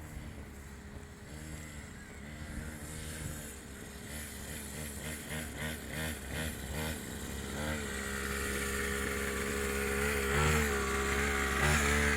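Mini dirt bike's small engine running, its pitch rising and falling repeatedly with the throttle, growing louder toward the end.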